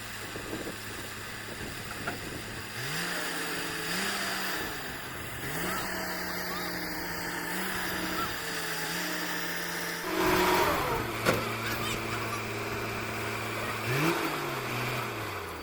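Diesel engine of a borewell drilling rig running, its speed stepping up and down several times: low and steady at first, rising about three seconds in, dropping back about ten seconds in, rising briefly again near the end and falling away. A louder rush of noise comes about ten seconds in.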